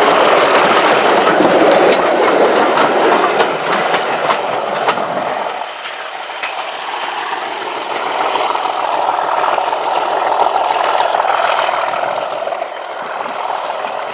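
Class 37 diesel locomotive's English Electric V12 engine working a train. The deep part of the sound drops away about five and a half seconds in, leaving a lighter, steady rumble that eases near the end.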